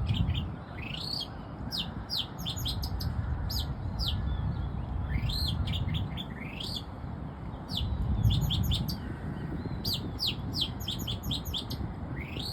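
Oriental magpie-robin singing: phrases of rising whistles and quick, sharply falling notes, repeated throughout, over a low background rumble.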